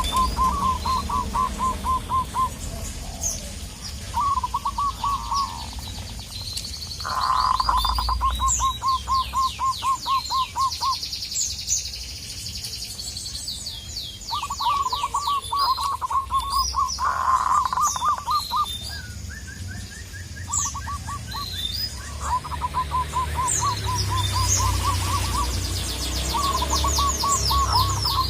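Zebra doves (perkutut) cooing in repeated runs of quick staccato notes, each run lasting a second or few, several times over, with smaller birds chirping at a higher pitch in the background.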